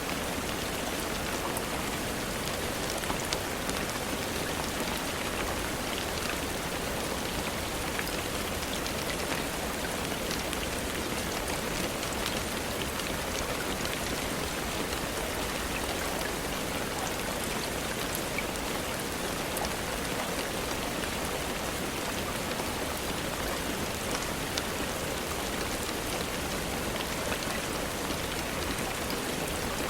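Steady rain falling, a continuous even hiss with many fine drop patters on a surface.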